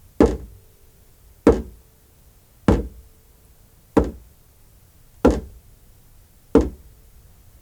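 A slow, even beat of single soft percussion strikes, six in all, about one every 1.3 seconds, each dying away quickly, with a faint steady hum between them.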